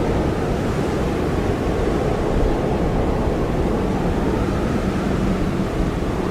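Blizzard wind blowing hard and steadily: a dense, low rushing roar with a faint whistle that wavers in pitch.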